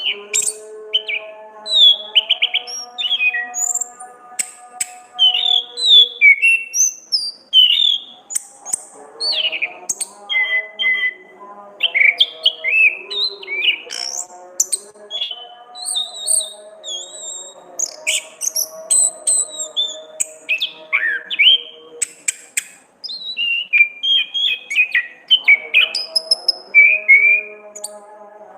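Orange-headed thrush (Anis kembang) singing a continuous, varied song of quick chirps, short whistled phrases and rapid clicking notes, with hardly a pause. Steady held background tones sound beneath the song, dropping out twice.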